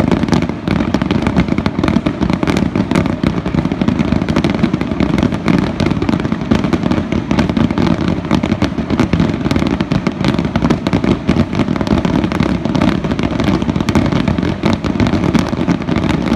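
Fireworks finale barrage: a dense, continuous run of shell bursts and crackle, the bangs overlapping with no pause between them.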